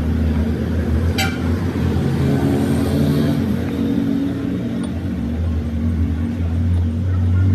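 A motor vehicle's engine running steadily with a low, even hum, and a single sharp click about a second in.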